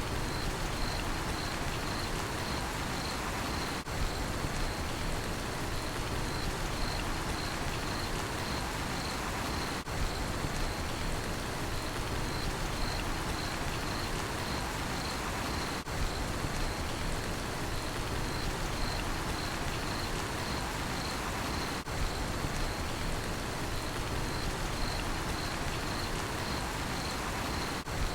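Steady rain falling, with a cricket chirping in an even, pulsing rhythm over it. The sound dips briefly about every six seconds.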